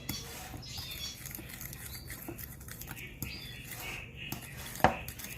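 A utensil stirring and scraping softened butter and dried seasonings in a bowl, with small scattered clicks and one louder clink near the end.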